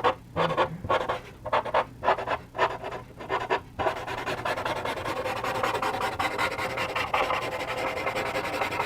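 A blending tool rubbing charcoal into textured charcoal paper: separate strokes about two a second at first, then about four seconds in it turns into fast, continuous scrubbing.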